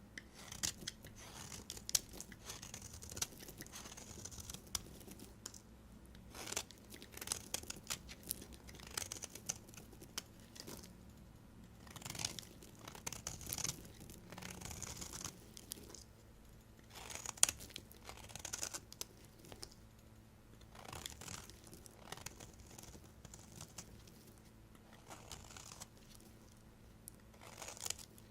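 Knife cutting through bars of soap in repeated strokes: each cut gives a cluster of sharp crackling clicks, with short pauses between cuts.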